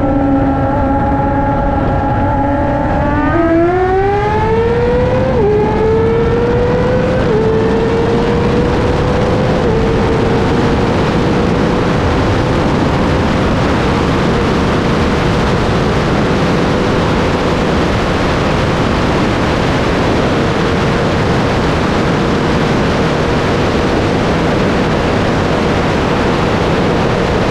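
600 cc inline-four sport bike engines held at steady revs, then opened up hard about three seconds in: the pitch climbs with three quick upshifts, then holds a high steady tone at speed, with strong wind rushing over the microphone.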